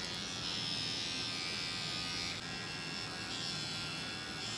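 Electric hair clippers buzzing steadily as they shave a cat's fur. The higher part of the buzz drops off a little after halfway and comes back about a second later.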